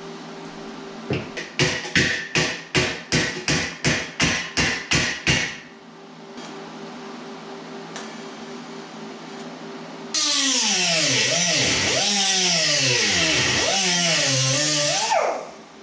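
About a dozen hammer blows on sheet steel, roughly three a second, each ringing briefly. Several seconds later a grinder runs on the metal, its pitch dropping and rising as it loads up, then it stops.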